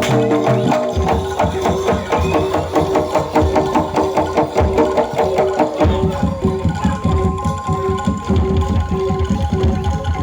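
Javanese jaranan dor ensemble music: fast, dense drumming over held pitched tones. Heavier deep drum strokes come in about six seconds in.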